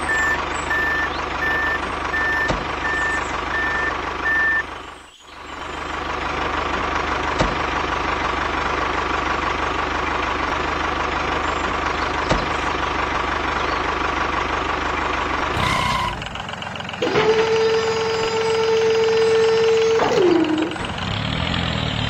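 A tractor engine runs steadily, with a reversing alarm beeping evenly over it through the first four or so seconds. The engine sound briefly drops out about five seconds in. Near the end a steady, higher held drone takes over for about three seconds.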